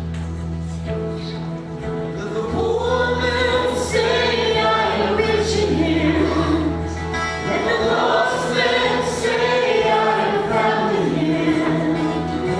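Gospel-style worship music: a group of voices singing together over steady, held instrumental chords. The voices come in about two seconds in.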